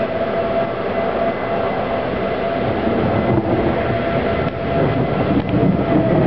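Outdoor civil-defense tornado warning siren sounding a steady wail that fades near the end, over heavy wind noise on the microphone.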